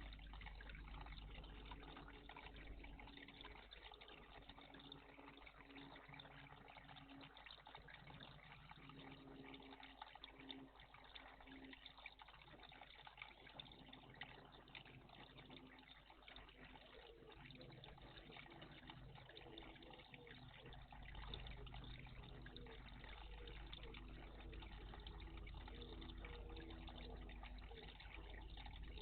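Faint water trickling and splashing in a garden bird bath.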